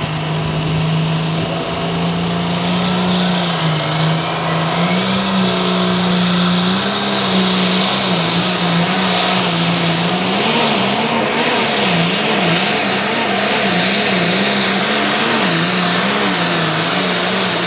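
Turbocharged diesel engine of a light limited super stock pulling tractor running hard at high revs. A high turbo whistle climbs about six seconds in, and from about halfway the engine pitch wavers up and down.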